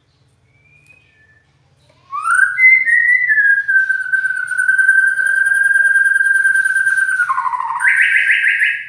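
White-rumped shama singing: a few faint notes, then a loud, clear whistle that slides up and is held steady for about five seconds, ending in a short harsh, buzzy rattle.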